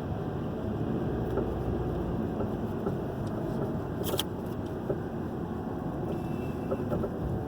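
Steady road and engine noise inside the cabin of a 2011 Hyundai i30 2.0 driving on smooth pavement, with a brief sharp click about four seconds in: the intermittent suspension creak that shows up only on smooth roads.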